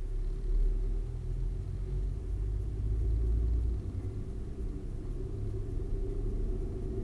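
Diesel train running along the track, heard from inside the driver's cab as a steady low rumble that eases a little about four seconds in.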